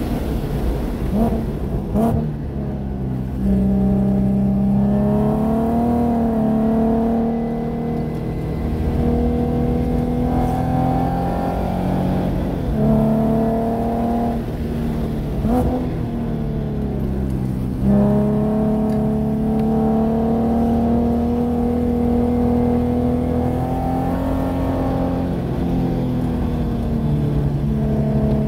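2014 Nissan 370Z Nismo's 3.7-litre V6 engine, heard from inside the cabin while the car is driven hard on a race track. The revs climb steadily in each gear and step abruptly at the gear changes as the driver shifts down from fifth to third.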